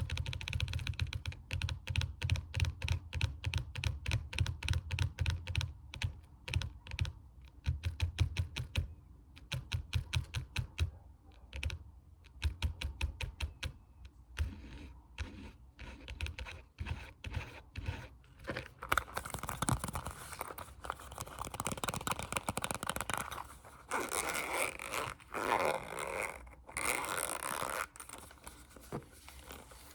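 ASMR fast tapping: rapid, uneven clicking taps close to the microphone, changing about two-thirds of the way through to a denser, continuous scratchy rubbing sound.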